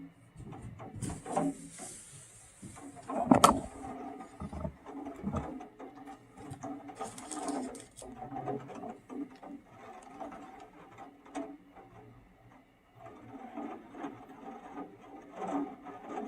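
Irregular rubbing, clicking and knocking handling noises, with one loud sharp knock about three and a half seconds in.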